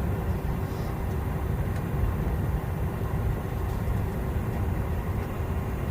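Steady low rumble of an airliner cabin inside a Boeing 717-200, with a faint steady hum above it.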